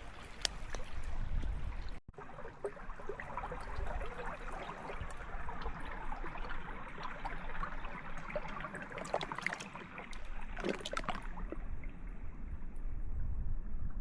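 Wind gusting across the microphone with a low rumble, over a crackling campfire that pops several times.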